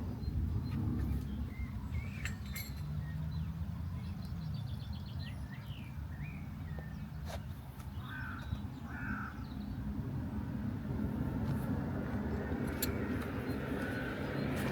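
Birds calling outdoors, a few short calls including two close together about two-thirds of the way through, over a steady low rumble.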